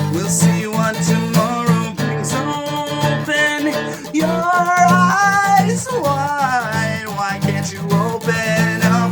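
Instrumental break in a song: steadily strummed acoustic guitar with a melody line over it that bends in pitch, strongest about halfway through.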